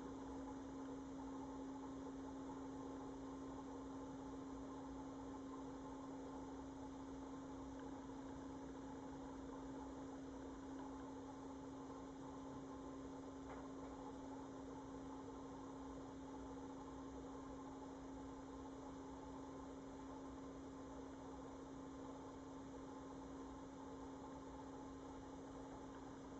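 A faint, steady electrical hum holding one constant low tone over a soft hiss, unchanging throughout, with a single faint tick about halfway through.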